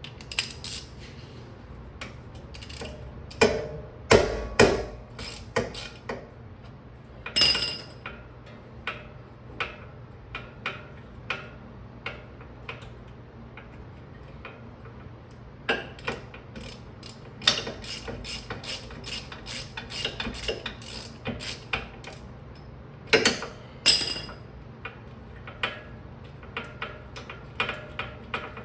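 Hand ratchet wrench clicking in irregular runs as a bolt is worked, with a few louder metallic clanks of tools and parts.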